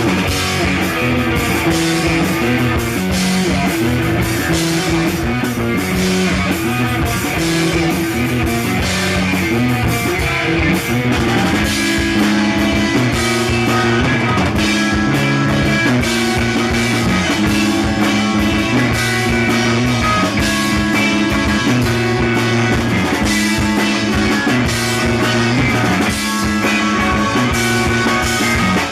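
Blues-rock band playing a song: guitar and drum kit over a repeating riff of low notes, loud and steady.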